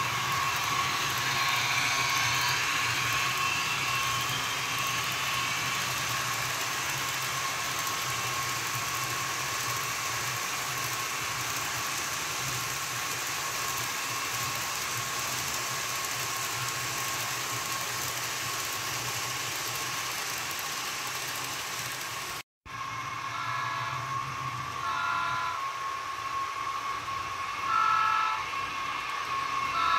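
HO scale model train running, a steady whirring hum with a thin high tone. After a brief cut about three-quarters of the way through, short horn-like tones sound several times.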